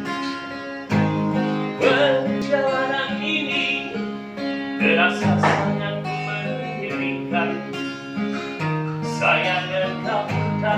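Acoustic guitar playing a song's introduction: plucked chords held and changed every few seconds, before the vocal begins.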